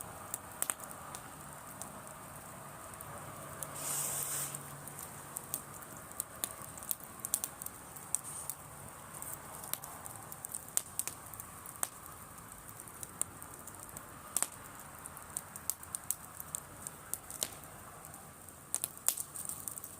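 Driftwood campfire crackling, with irregular sharp pops and snaps throughout and a short rush of noise about four seconds in.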